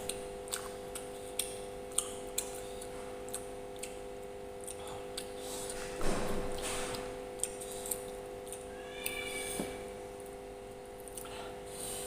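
Eating sounds: scattered short clicks and moist chewing, with a louder burst about halfway through, over a steady low hum.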